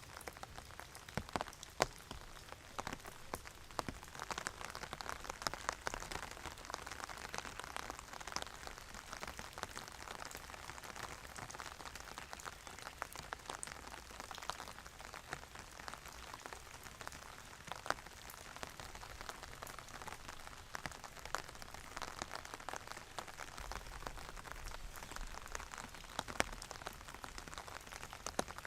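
Steady rain, with many individual drops ticking distinctly on a hard surface through an even hiss.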